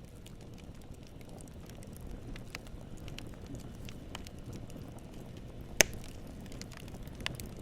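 Campfire burning: a steady low rumble of flames with scattered crackles, and one sharp loud pop of burning wood just before six seconds in, a smaller one near the end.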